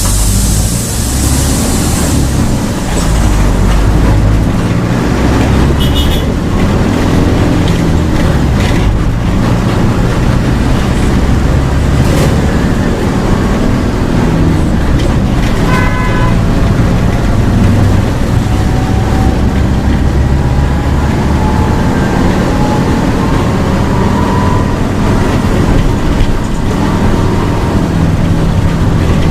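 Diesel engine of a Mercedes-Benz OF 1722M bus running hard at high revs, a steady deep drone with its pitch climbing slowly in the second half as the bus pulls through a gear. A short high tone sounds briefly twice.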